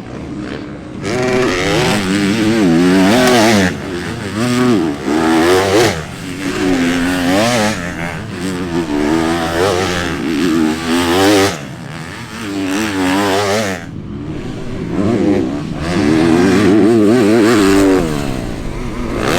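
Motocross bikes on track, their engines revving up and dropping off in repeated surges as riders accelerate, shift and pass by.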